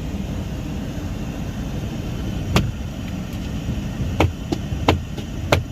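Car engine idling, heard from inside the cabin as a steady low rumble. A sharp click sounds about two and a half seconds in, and several more come in the last second and a half.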